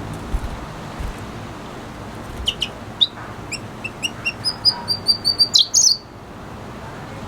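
Red siskin singing: a few short high chirps, then a fast run of repeated high notes for over a second, ending in a louder cluster of notes, over a steady background noise.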